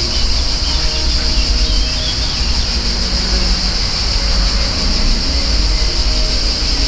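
Steady high-pitched insect drone, like cicadas or crickets, over a continuous low rumble.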